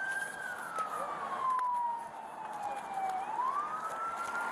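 Police car siren in a slow wail: its pitch falls steadily for about three seconds, then climbs back up quickly near the end.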